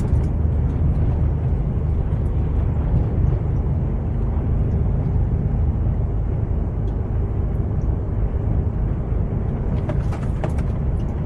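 Truck's diesel engine running steadily under way, with a low, even rumble of engine and road noise. A few short clicks near the end.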